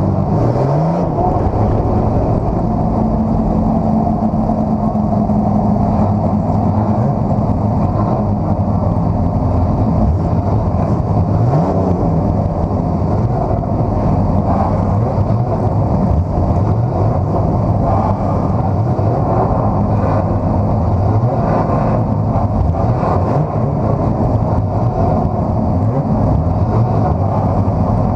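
Race car engine running steadily at low revs, heard from inside the cockpit. There is a short rise in revs about a second in and small throttle changes later.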